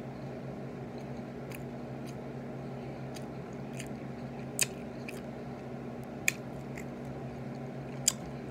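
A person chewing chicken nuggets with ranch, with small wet mouth sounds and three sharp clicks about halfway through, two-thirds through and near the end, over a steady low hum.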